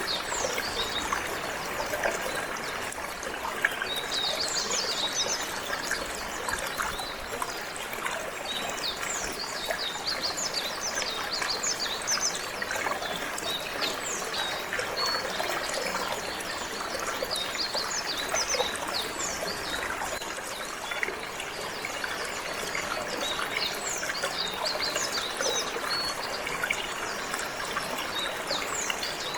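Running water trickling steadily, overlaid by a canary singing: a continual run of short, high, falling chirps.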